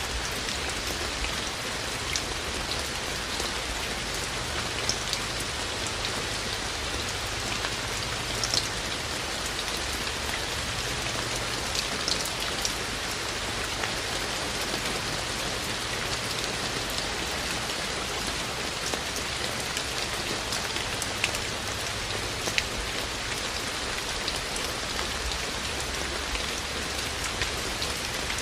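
Steady rain falling, with scattered louder drops ticking now and then over the even hiss.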